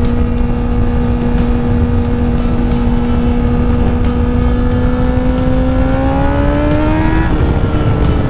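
Honda CBR1000RR's inline-four engine running steadily at road speed under a constant rush of wind over the helmet microphone. From about five seconds in the revs climb, then drop sharply with a gear change near the end.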